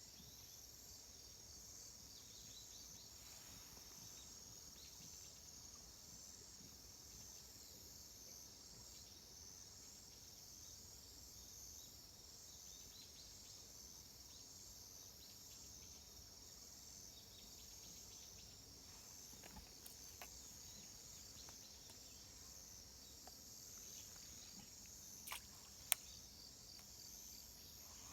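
Faint, steady high-pitched chirring of an insect chorus, with a slight even pulsing. A couple of sharp clicks come near the end.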